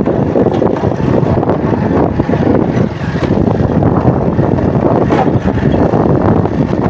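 Wind buffeting the microphone over a motorcycle running steadily on the road.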